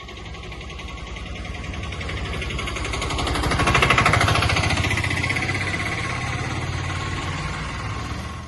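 A rapid, steady chugging engine-type sound that grows louder to a peak about four seconds in, then fades back.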